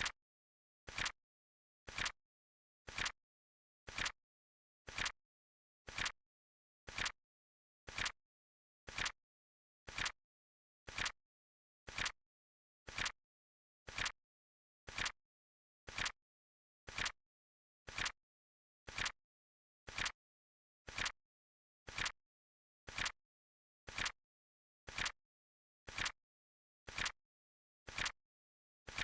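Flip-clock flip sound effect: short, even clicks, one each second, with silence between.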